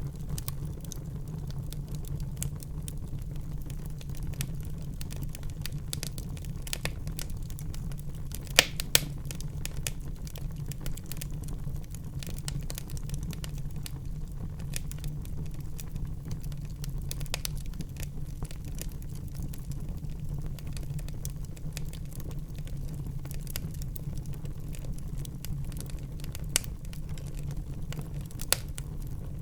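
Wood fire burning in a fireplace: a steady low rumble of the flames with constant fine crackling, and a few sharp louder pops, two close together about eight and a half seconds in and two more near the end.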